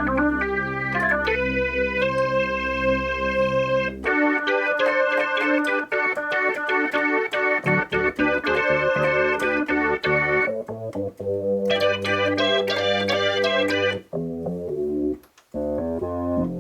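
Roland JX-3P analog synthesizer with the Kiwi-3P upgrade playing its "Organ 1" preset: organ-like held chords with a sustained bass note, then quicker chord and note runs, pausing briefly near the end.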